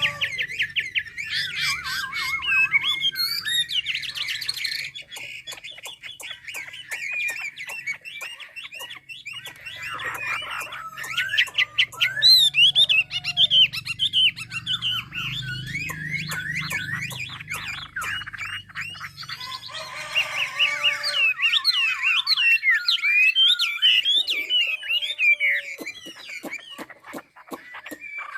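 A caged mi songbird singing a long, varied song of quick whistled and warbled phrases, with brief pauses between bursts.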